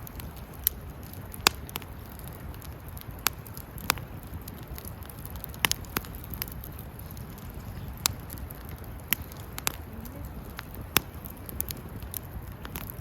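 Wood campfire crackling, with sharp pops at irregular moments about once a second, over a low steady rumble.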